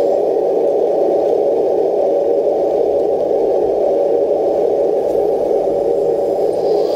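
Leopard RC model tank running: a loud, steady, noisy hum that holds an even level throughout.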